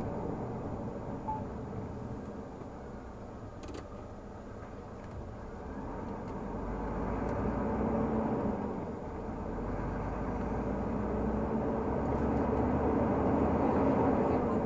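Renault Magnum 480 truck's diesel engine running under way, with a steady low rumble and road noise that eases a little and then swells again toward the end.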